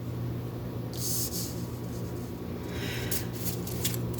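Oracle cards being handled: a short brushing slide about a second in, then a run of light clicks and taps near the end, over a steady low room hum.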